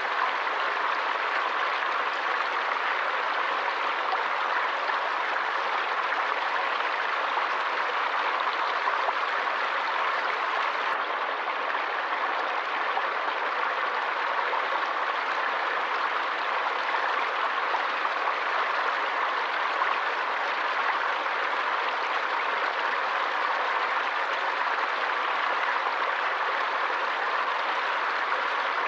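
Forest stream flowing, a steady, unbroken rush of water over rocks.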